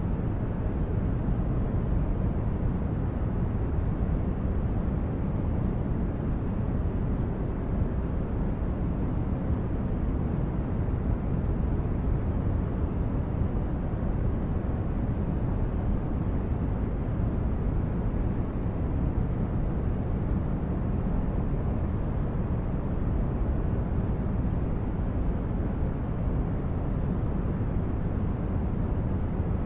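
Sci-fi spaceship ambience: a steady, unbroken low rumble of brown noise, deepest at the bottom and thinning out toward the highs, like an engine drone heard inside a starship.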